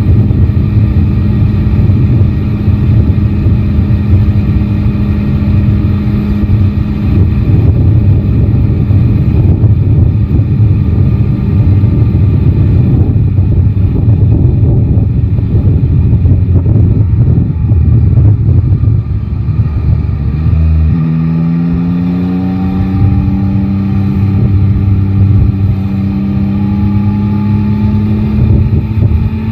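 Yamaha Tracer 9 GT's three-cylinder engine running under heavy wind noise on the microphone. About two-thirds of the way in the engine note drops away, then rises steadily as the bike accelerates again.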